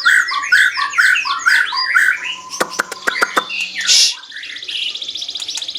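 White-rumped shama (murai batu, Medan type) singing loudly: a fast run of repeated falling whistled notes, then a few sharp clicks, a short loud burst about four seconds in, and a rapid trill.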